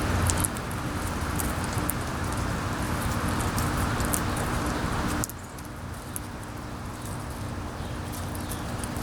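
Wind rushing across the microphone, with a faint steady hum beneath and scattered small high clicks. The rushing drops off suddenly about five seconds in and stays lower.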